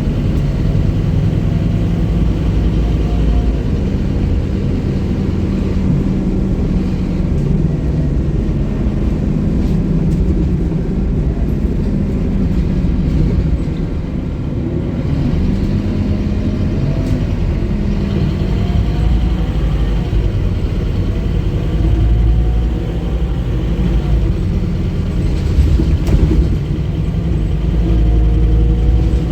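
Scania K230UB bus engine running under way: a steady low rumble, with a faint whine that rises in pitch several times as the bus pulls away and speeds up.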